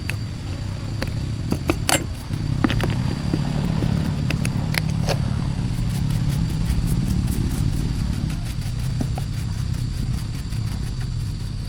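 An engine running steadily with a low rumble, with scattered metallic clicks and knocks over it.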